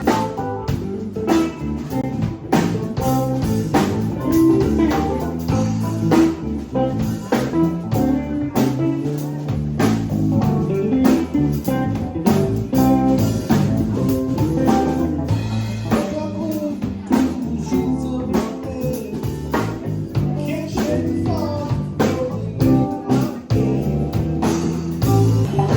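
Band playing live: guitar over a drum kit keeping a steady beat.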